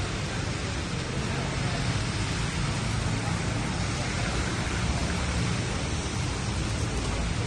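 Steady rain falling, a constant even hiss, over a low rumble of street traffic.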